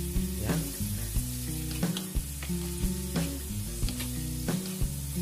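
Thin slices of beef sizzling in a hot nonstick frying pan, stirred with a wooden spatula that scrapes across the pan with each stroke, about once or twice a second. Background music with held low notes plays underneath.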